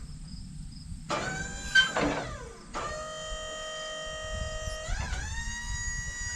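A high, pitched whine that starts as a short squeal about a second in, then holds a steady note and steps up in pitch about five seconds in.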